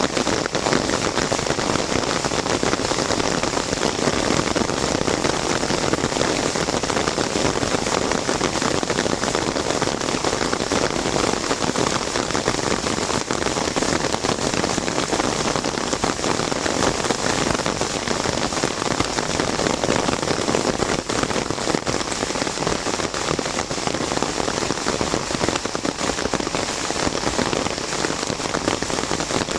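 Heavy rain falling on an umbrella overhead: a steady, dense patter of drops with no let-up.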